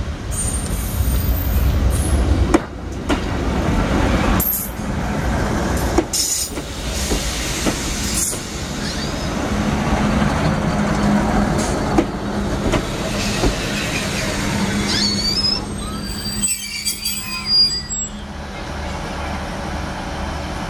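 Class 153 diesel multiple unit passing close by at low speed: the underfloor diesel engine runs under the rumble of the wheels, with a series of sharp knocks as the wheels cross the crossing and rail joints. Thin, high wheel squeals come in near the end.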